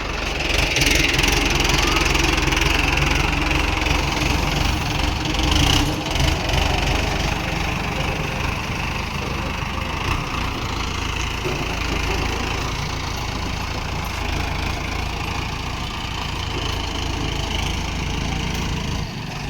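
Mahindra Arjun 555 tractor's diesel engine running steadily with a low rumble, a little louder over the first several seconds and then settling.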